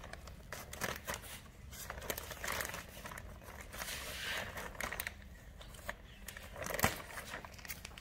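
Plastic bag of garden soil crinkling and rustling as it is cut open with scissors and handled, in short crackly bursts with a sharper snap about seven seconds in.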